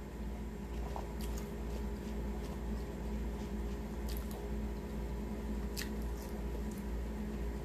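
Mouth-close chewing of French fries, soft and wet, with a few sharp lip-smack clicks over a steady low hum.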